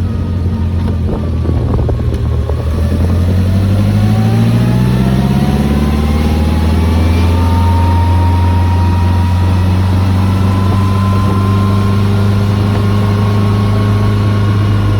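Morgan Plus 4's four-cylinder engine rising in pitch as the car accelerates for several seconds, then settling into a steady cruising note.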